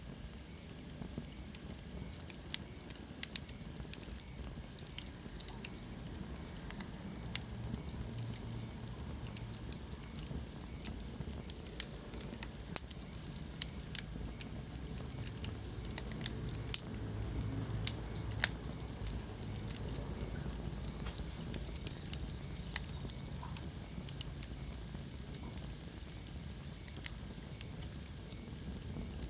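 Wood fire burning in a fireplace: irregular sharp crackles and pops over a steady low rumble of flames, with a faint thin high hiss.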